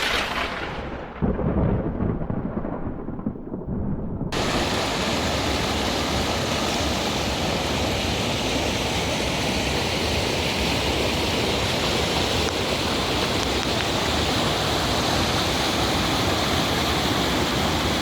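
Steady rushing of river water that starts abruptly about four seconds in, after a cut. Before it comes a short rumble that starts suddenly and fades.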